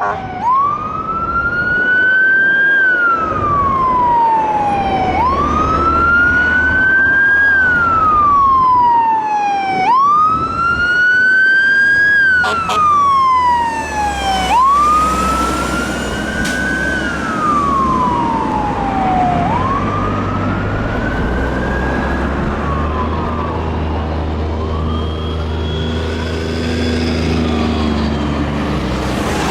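Fire engine siren on a slow wail: each cycle rises quickly and then falls over about two seconds, repeating roughly every five seconds, with the truck's diesel engine rumbling underneath. After about twenty seconds the siren fades and the engine drone carries on.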